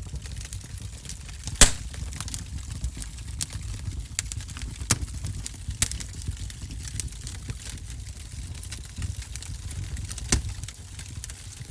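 Wood fire in a fireplace crackling: a steady low rumble of burning with frequent sharp pops and snaps, one loud pop about a second and a half in and another near the end.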